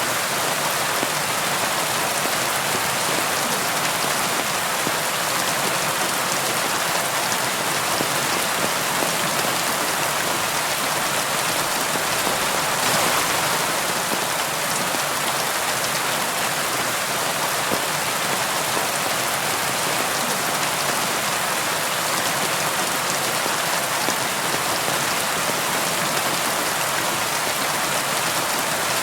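Steady rain falling on a surface, a dense even hiss of many drops with no thunder.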